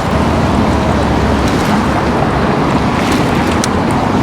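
Wind buffeting the microphone of a rider on an electric bike moving at speed: a loud, steady rushing rumble, with a few faint clicks about three seconds in.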